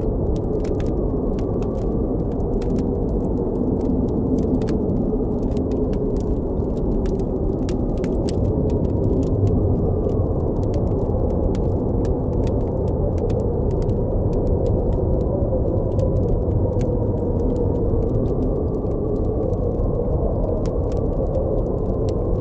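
Steady blizzard wind with a low rumble and a faint wavering moan, over the frequent small pops and crackles of a campfire.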